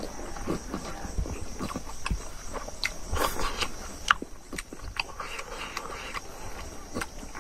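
A person chewing and smacking a mouthful of food close to the microphone: irregular wet clicks and smacks, several a second.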